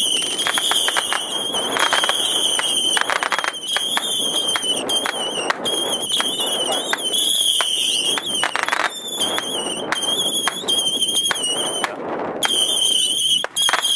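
Firework giving off a long, wavering high-pitched whistle, with dense crackling pops throughout. The whistle drops out briefly near the end, then resumes.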